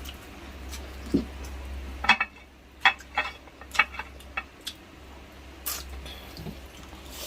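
Cutlery clicking against a plate during a meal: a handful of sharp clinks, most of them clustered a couple of seconds in, over a low steady hum.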